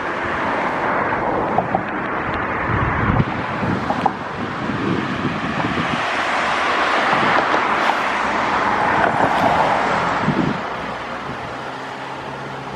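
Steady rushing noise from a roadside waterfall and a vehicle passing on the road, swelling to a peak and falling away about ten seconds in. Wind buffets the microphone a few times.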